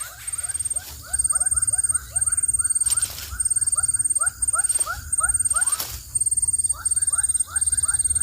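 Newly hatched bird-of-prey chicks peeping in rapid runs of short high chirps, about four to five a second, in bouts with short pauses between them.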